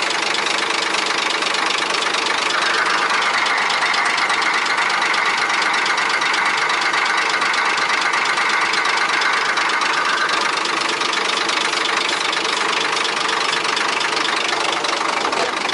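Scania 124 420 truck's diesel engine idling steadily, with a brighter, higher-pitched layer from about two and a half seconds in until about ten seconds in.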